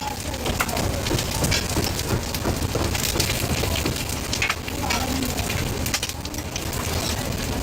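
Food sizzling steadily as it fries at a street-food stall, with scattered clicks and taps of utensils and brief snatches of distant voices.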